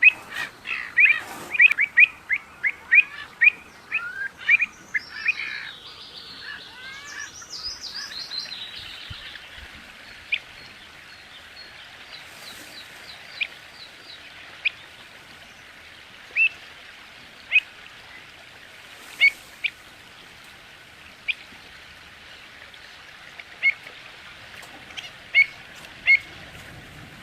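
Small birds chirping: a fast run of sharp chirps for the first few seconds, a quick run of higher notes, then single sharp chirps every second or two.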